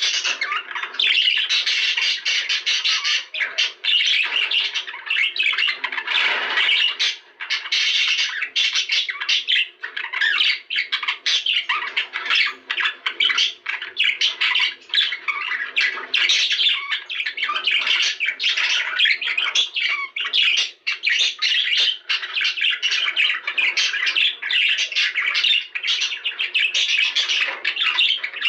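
A flock of budgerigars chattering and squawking without a break, many rapid chirps overlapping.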